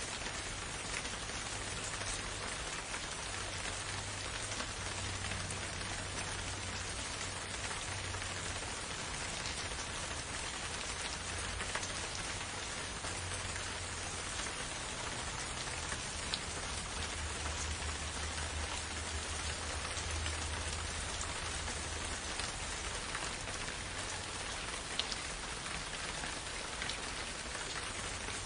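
Steady rain falling in a forest, an even hiss with scattered single drops ticking through it.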